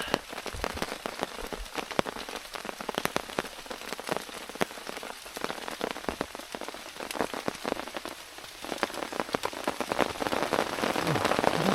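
Rain falling on a camping tarp: a steady patter of many separate sharp drop hits, getting heavier near the end.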